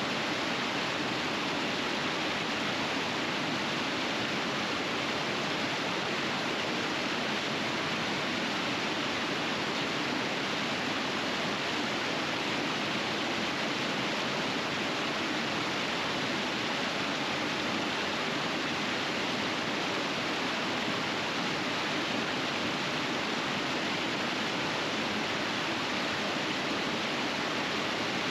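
River water rushing steadily over rapids as one continuous, even wash of noise.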